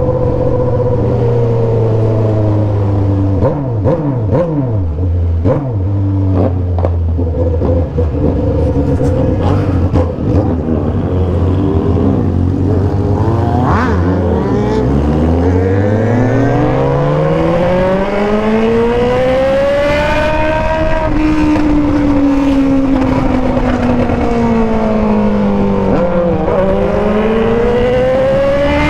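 Motorcycle engines with loud aftermarket exhausts running. The engine note holds steady at first, then rises in pitch, falls back, and climbs again near the end as the revs go up and down, with a few short crackles early on.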